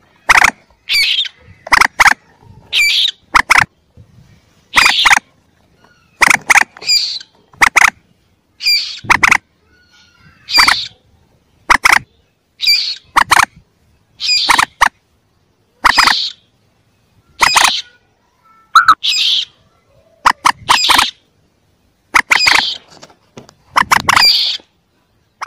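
Recorded calls of young common moorhen chicks played as a hunting lure: short, sharp calls, often in pairs, repeating about once a second with silence between.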